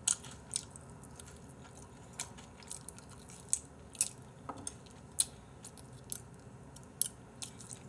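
A person biting and chewing crispy fried chicken: short, sharp crunches at irregular intervals.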